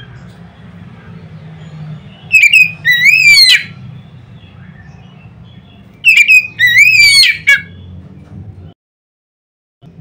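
Oriental magpie-robin (kacer) singing a loud whistled phrase twice, about four seconds apart: quick short notes, then a wavering, rising whistle. A low hum runs underneath, and the sound cuts out completely shortly before the end.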